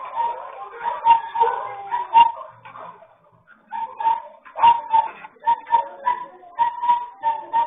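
An animal calling over and over in short, high, repeated notes, with clicky breaks between them and a brief pause about three seconds in.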